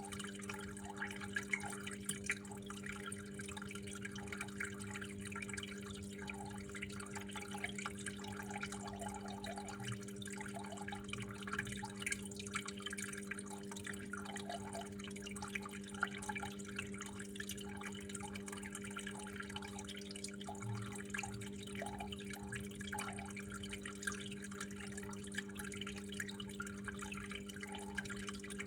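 Water trickling and dripping steadily, with many small splashes, over a steady low hum.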